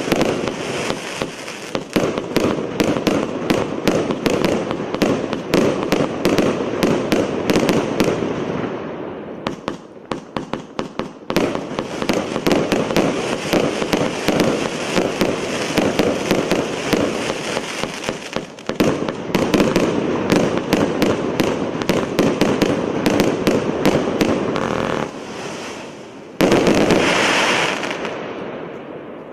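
A 600-shot fireworks battery firing rapid volleys, many shots a second. The shots thin out briefly about ten seconds in, and a last loud burst comes near the end before the sound dies away.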